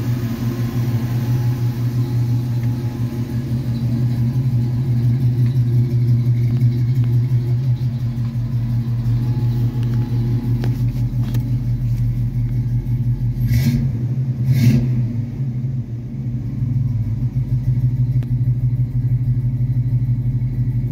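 1976 Oldsmobile Cutlass Supreme engine idling steadily with a low rumble. Two brief bumps come about two-thirds of the way through.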